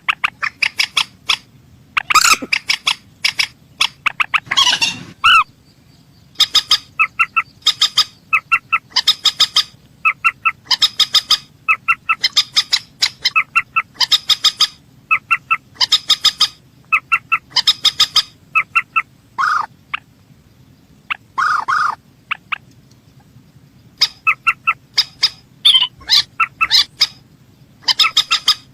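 Mandar sawah (a rail) calling: quick bursts of short, sharp repeated notes, about one burst a second, with a few brief pauses. This is a call played to lure the bird.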